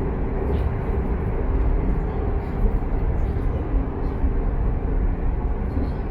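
Steady running noise of a train at speed, heard from on board: a continuous low rumble.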